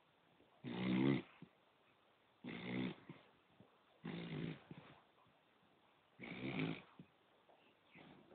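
A sleeping poodle snoring: four short snores of about half a second each, coming every second and a half to two seconds, with a fainter one near the end.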